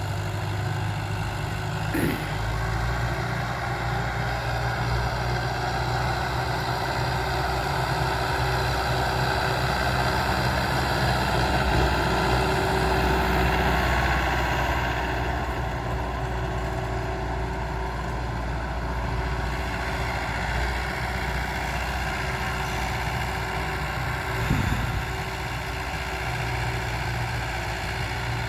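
Power tiller's single-cylinder diesel engine running steadily while ploughing, growing louder for a few seconds midway. A sharp knock sounds about two seconds in and another near the end.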